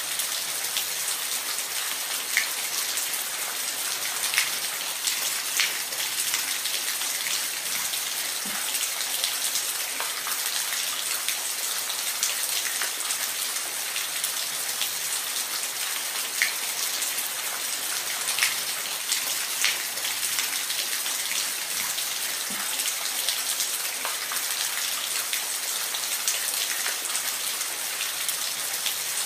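Steady rain falling, a constant hiss with single drops ticking sharply here and there.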